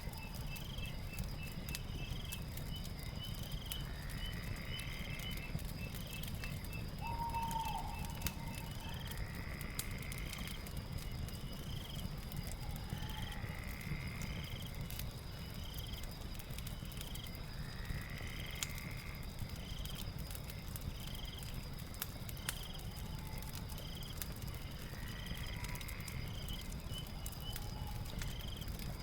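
Night ambience of frogs and insects calling: a call repeating about every four seconds over short regular chirps and a steady high insect drone. Under it, a crackling fire gives frequent small pops over a low rumble.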